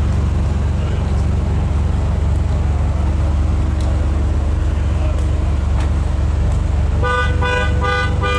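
Steady low rumble, then near the end a car horn honking in a quick series of short beeps, about two or three a second.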